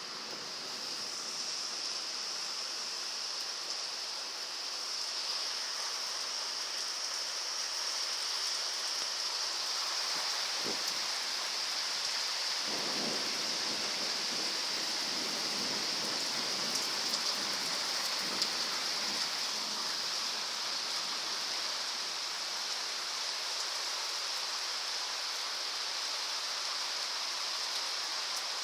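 Heavy rain pouring steadily during a thunderstorm, with a low rumble of thunder through the middle.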